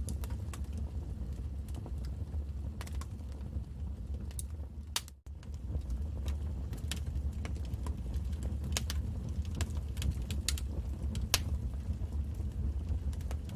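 Wood fire crackling, with irregular sharp pops and snaps over a steady low rumble. The sound cuts out for an instant about five seconds in.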